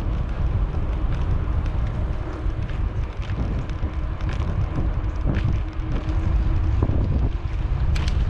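Wind buffeting the microphone over the low rumble of a bicycle rolling along a trail, with scattered small clicks and rattles and a sharper click near the end.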